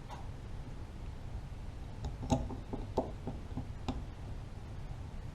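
A few light clicks and taps of a small screwdriver and metal parts being handled while a chainsaw carburetor is taken apart, most of them bunched together about two to four seconds in.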